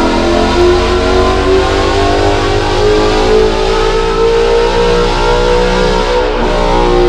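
Ford 5.0 Coyote V8 in a 2017 Mustang GT with headers and a catted exhaust, held at load on a chassis dyno, its revs climbing steadily through a pull.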